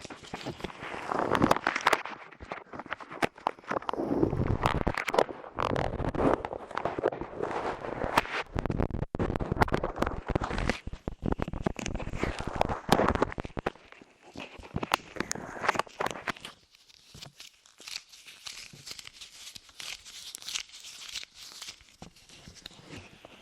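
Soft light clay squished, pressed and pulled on and in the ears of an ASMR microphone: dense sticky crackling and crinkling with muffled rubbing swishes. About fourteen seconds in it turns lighter, to sparser, quieter crackles.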